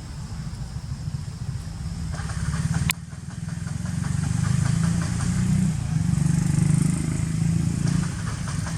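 A motor engine running steadily, louder in the second half, with a single sharp click about three seconds in.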